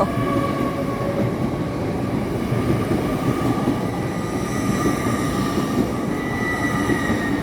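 A GWR Class 800 train moving through the station with a loud, steady rumble of wheels and running gear. Thin high tones sit faintly above it.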